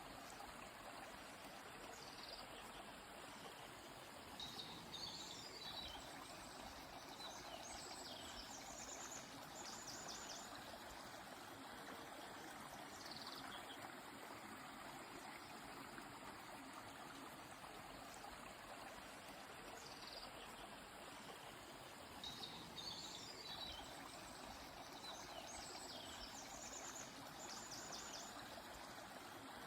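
A river or stream running steadily, with small birds singing high above it: short sliding notes and a quick trill, in two bouts, one in the first third and one near the end.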